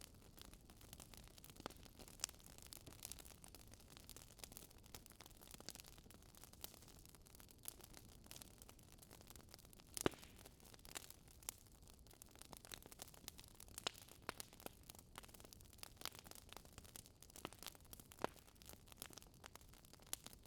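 Wood fire crackling in a fireplace: a faint, continuous scatter of small irregular crackles with a few louder pops, the loudest about ten seconds in.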